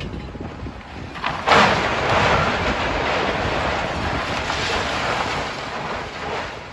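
Building rubble giving way in a demolition: a sudden crash about a second and a half in, then a long rushing clatter of falling debris that dies away near the end, over the rumble of heavy machinery.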